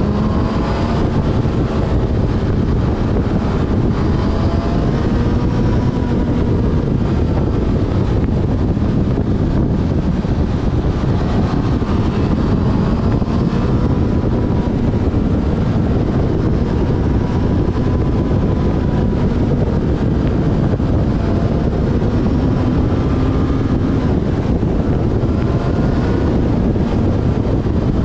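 Yamaha Fazer FZ6S's inline-four engine running under way, its pitch rising and falling as the revs change, under heavy wind noise on the microphone.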